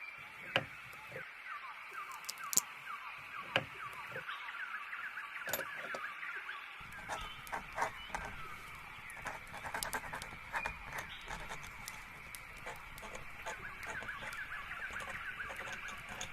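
Small birds chirping busily in many short, quick downward-sliding notes, with scattered sharp ticks; a low rumble joins about seven seconds in.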